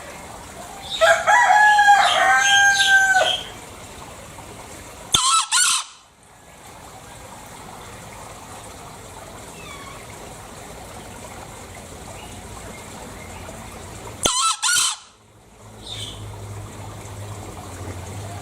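Green junglefowl calling: a long pitched call about a second in, then two short sharp double-note crows, one near five seconds and another near fourteen.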